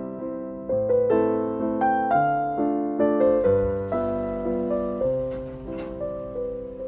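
Background piano music: a slow, gentle melody of struck notes and chords that each ring and fade.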